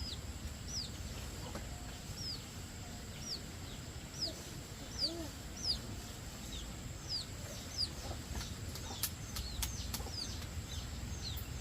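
Bird chirping: a steady series of short, high chirps, each falling in pitch, about one or two a second. A few sharp clicks come near the end.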